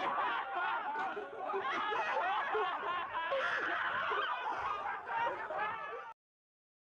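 Several voices laughing and chuckling together, overlapping, cut off suddenly near the end.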